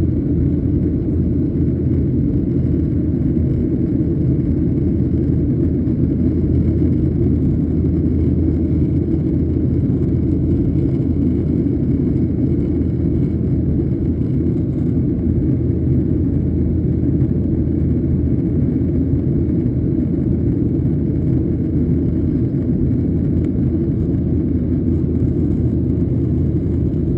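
Steady low rumble inside the cabin of a Boeing 737-800, from its CFM56 engines and the airflow around the fuselage, holding even throughout.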